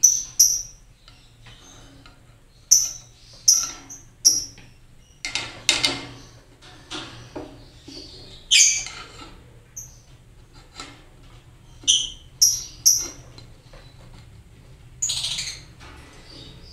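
Lovebirds calling with short, sharp, high-pitched chirps, about a dozen spread through the stretch, some in quick pairs and threes. A few rustling knocks come around the middle.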